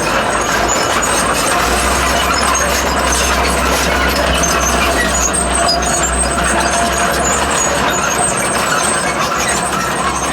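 Komatsu D31P crawler bulldozer's diesel engine running steadily, with a constant metallic rattling and clanking from its steel tracks and running gear.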